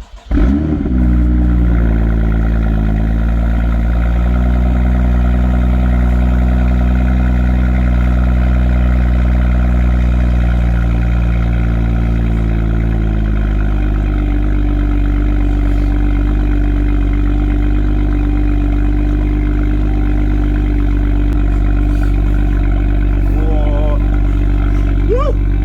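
BMW M2's N55 turbocharged straight-six cranks and fires at the very start, flares briefly, then settles into a steady cold-start idle. About 13 seconds in, the idle note changes and carries on evenly.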